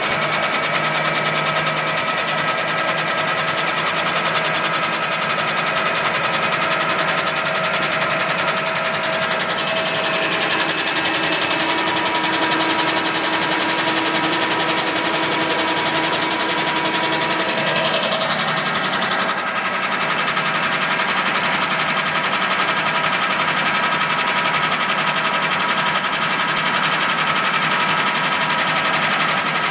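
1991 Pontiac Firebird engine running steadily with a rapid, regular knocking.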